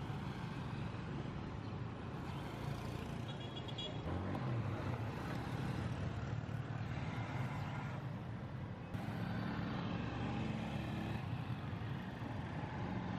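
Car on the road: steady engine and tyre noise, with abrupt changes in the sound about four and nine seconds in.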